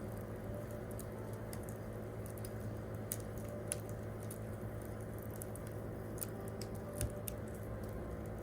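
Wood campfire crackling: scattered sharp pops and snaps, the loudest about seven seconds in.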